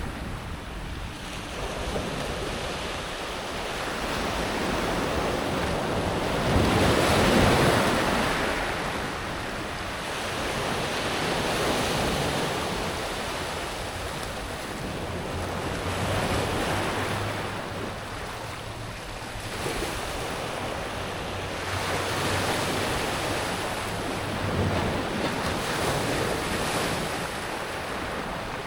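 Sea waves breaking and washing back over a pebble beach, the rush swelling and fading every few seconds, with the biggest wave about seven seconds in.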